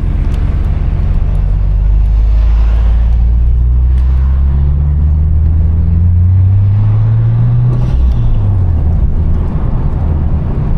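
Sports car engine pulling under acceleration, its pitch rising steadily over a few seconds, then dropping sharply about eight seconds in.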